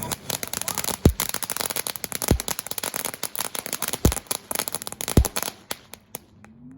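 Small consumer firework going off: dense crackling for about five and a half seconds, with four louder bangs spread through it, then a few last scattered pops before it ends.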